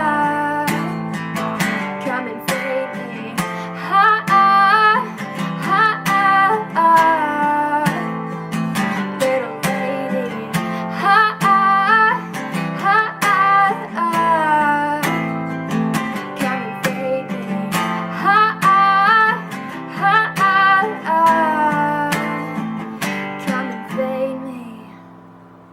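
Song outro played on acoustic guitar, strummed and plucked in repeating phrases, fading out near the end.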